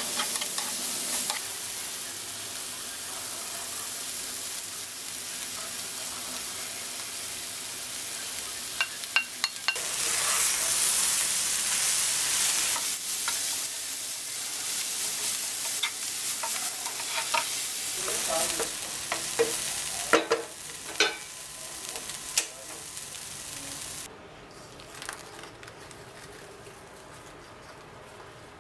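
Onions, tomatoes and shredded chicken sizzling as they fry in a non-stick pan, stirred with a wooden spatula that scrapes and knocks against the pan now and then. About four-fifths of the way through, the sizzling cuts off suddenly, leaving only a faint hiss.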